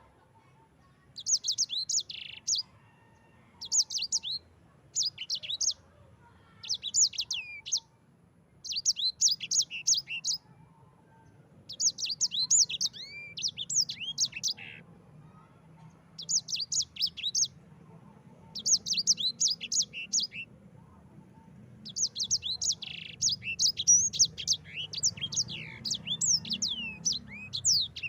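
Yellow-fronted canary (sanger) singing in quick bursts of rapid, high, down-slurred notes, about a dozen short phrases with brief gaps, running into a longer continuous rolling phrase near the end.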